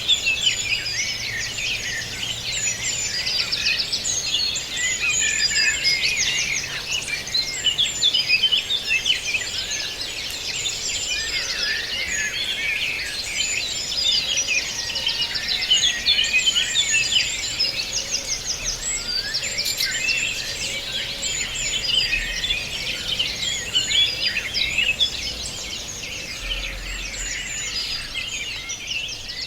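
A dense chorus of many small birds chirping and singing at once, with overlapping high, quick calls and trills.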